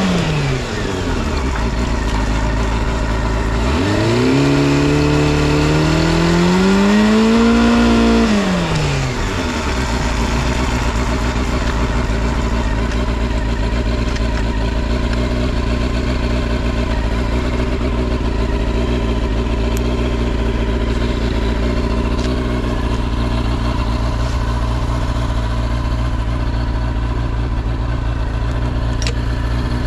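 Honda CB400 Super Four VTEC Spec1 inline-four through a Double R's aftermarket exhaust: the revs drop at the start, the engine is blipped up once about four seconds in and falls back to idle by about ten seconds, then it idles steadily. It runs smoothly with no abnormal noise, as the seller states.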